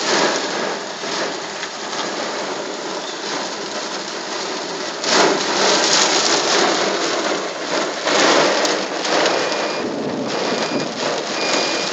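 Heavy rain pelting the car, heard from inside the closed cabin as a dense, steady hiss, growing heavier about five seconds in.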